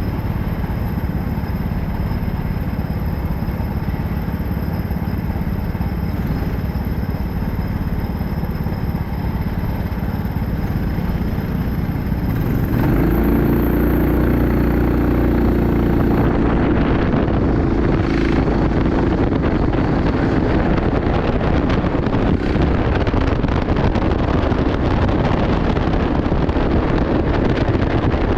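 Go-kart engine running under way, with wind and track noise. About twelve seconds in the engine note becomes louder and clearer.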